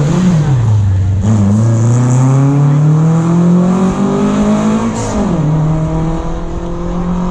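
Rally car engine under hard acceleration. Its pitch climbs steadily for about four seconds, then drops sharply at an upshift about five seconds in and holds steady after. A quick rise and fall in revs comes right at the start.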